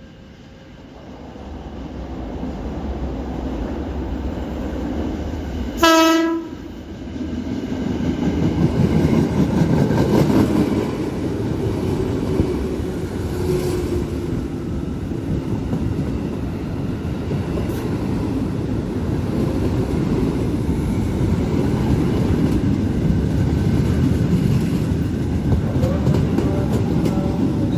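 A train approaching and running past on the rails, its rumble building over the first few seconds. A single short horn blast sounds about six seconds in, the loudest moment, and the train's running rumble continues steadily after it.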